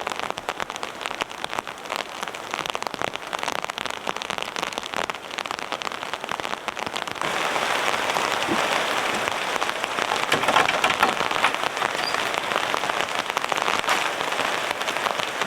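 Heavy rain falling, a dense patter of drops that gets louder about seven seconds in.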